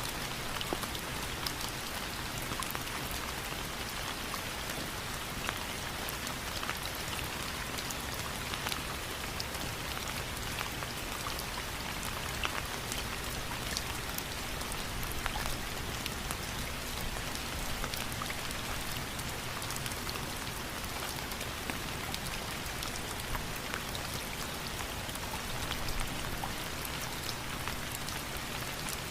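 Steady rain: an even hiss of falling rain with many separate drops heard hitting, unchanging throughout.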